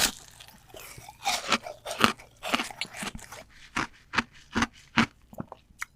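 Close-up chewing of seafood, with a run of irregular sharp crunches, sometimes two or three in quick succession.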